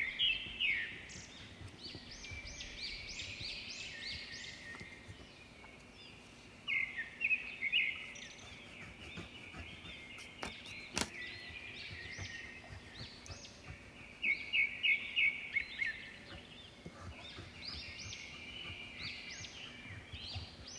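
Small birds chirping in the background, in repeated quick series of short high notes that come and go, with a couple of faint clicks about halfway through.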